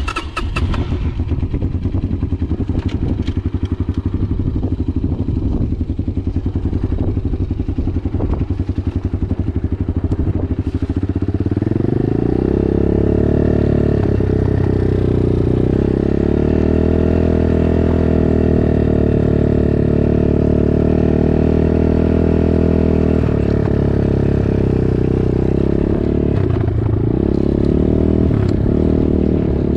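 Dirt bike engine running at low revs with a rough, pulsing beat, then revving up about eleven seconds in and holding a steady higher pitch, with a brief dip in revs near the end.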